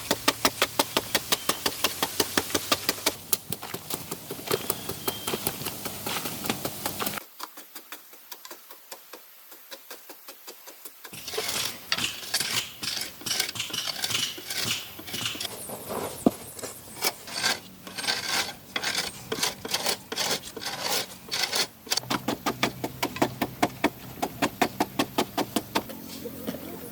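Rapid, even clicking, about five clicks a second, that fades to faint ticks for a few seconds and then comes back louder and less regular.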